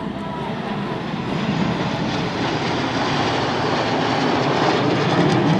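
Red Arrows BAE Hawk jets flying over, a rushing jet noise that grows steadily louder as the aircraft approach.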